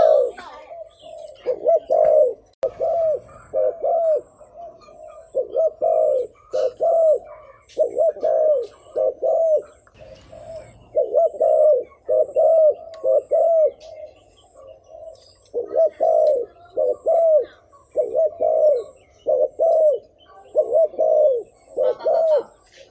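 Spotted dove cooing: runs of short, low, arched coos, two to four at a time in quick succession with brief pauses between runs. This is the rapid 'thúc gù' coo used by a tame decoy bird to call in wild males.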